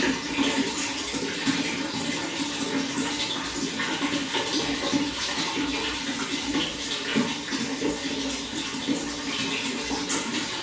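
Running water flowing and splashing steadily, a continuous rushing with many small splashes and no change in level.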